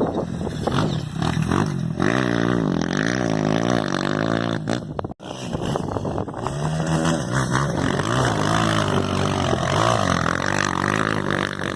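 Motocross dirt bike engine running hard, its pitch rising and falling again and again as the throttle is opened and shut. The sound cuts out for an instant about five seconds in.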